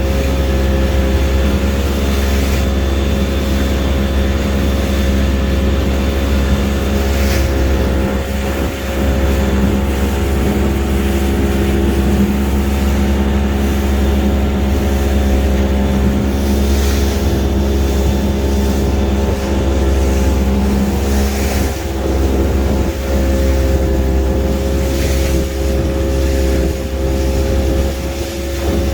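A small fishing boat's engine running steadily at cruising speed under way, a constant drone with a low rumble of hull and water noise.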